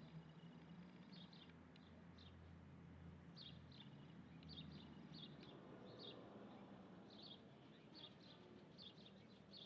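Faint small-bird chirping: a series of short, high chirps repeating about once or twice a second, over a steady low hum.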